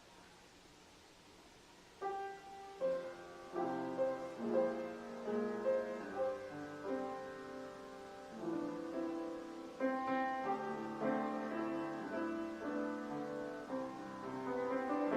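Piano playing a slow, gentle offertory piece. It starts about two seconds in, after near silence, with single notes and chords struck and left to ring.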